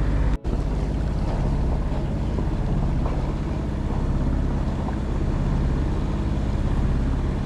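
Boat engine running steadily under way, with wind noise on the microphone and a brief dropout about half a second in.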